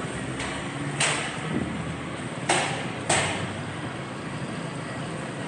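Steady engine and road noise of a moving motorcycle, broken by three sharp knocks about one, two and a half and three seconds in.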